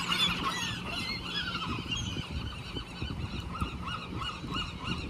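California sea lions barking, many overlapping honking calls in a continuous chorus.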